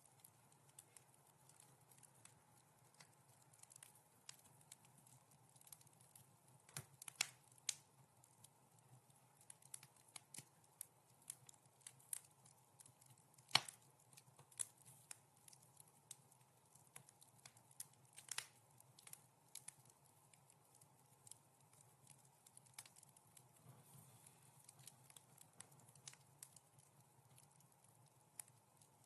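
Wood fire crackling in a fireplace: scattered soft snaps and pops at an irregular pace, with a few sharper pops, the loudest about halfway through and another a few seconds later, over a faint steady low hum.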